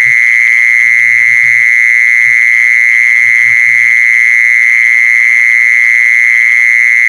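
Jee-son cicada calling: a loud, unbroken high buzz near 2 kHz with a fast pulsing flutter that holds steady throughout.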